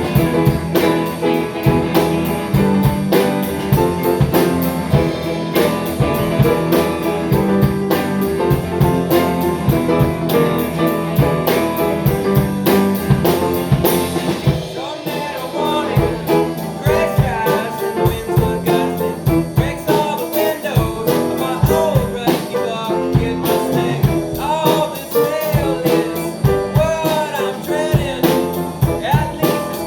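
A band playing a blues-rock song on guitar and drum kit, with a steady driving beat; from about halfway through, bending, wavering notes come in over it.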